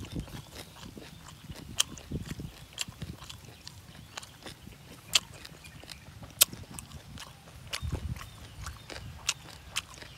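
A person chewing a mouthful of shrimp and papaya salad close to the microphone: soft low mouth thuds with irregular sharp crunching clicks, the loudest about five and six and a half seconds in.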